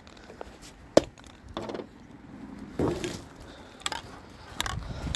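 A few scattered knocks and clunks of things being moved or handled, the sharpest about a second in.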